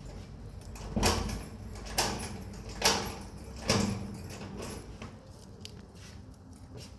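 Four heavy knocks about a second apart, each ringing briefly, then only a low steady background.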